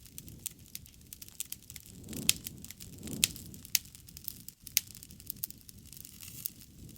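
Wood fire crackling: scattered small ticks and a few sharp pops, the loudest about two and three seconds in, over a soft low rush of flame.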